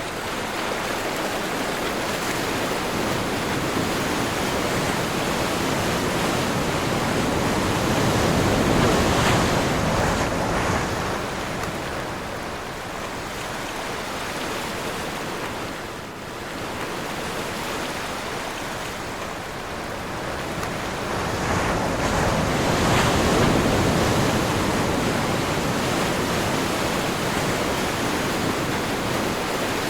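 Sea waves breaking and washing ashore in the wind, a steady rush of surf that swells louder twice, about a third of the way in and again near three-quarters.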